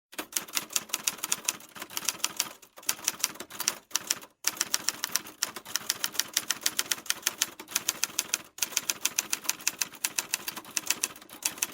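Rapid, even keystroke clicks like typewriter typing, about seven a second, in runs broken by brief pauses.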